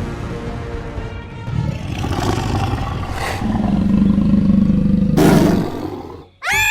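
A big cat's roar, long and rough, building from about two seconds in and fading out before the end, over background music. A sudden high-pitched call cuts in right at the end.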